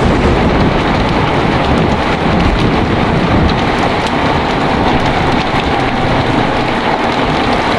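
Heavy, steady rain with a long, low rumble of thunder rolling underneath, which dies away near the end.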